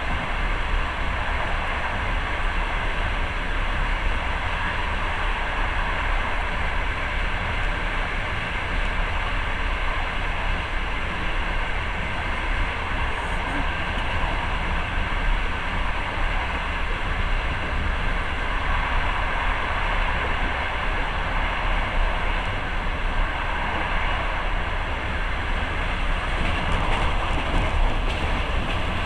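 Passenger train running along the track, heard from inside the moving carriage: a steady rumble and rolling wheel noise.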